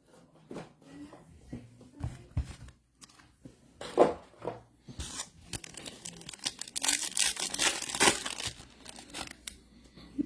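A trading card pack wrapper being torn open and crinkled, with light clicks and rustles of card handling before it. The tearing and crinkling is loudest for about four seconds in the middle.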